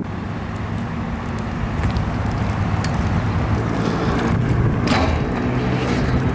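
A motor vehicle engine running steadily over traffic noise, with a sharp click about five seconds in.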